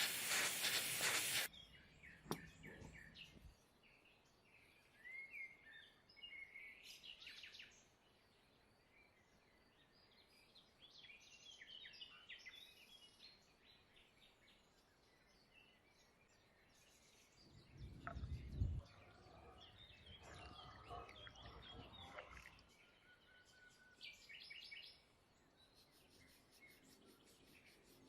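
Faint birds chirping on and off, after a loud steady hiss that cuts off suddenly about a second and a half in; a short low thump comes about two-thirds of the way through.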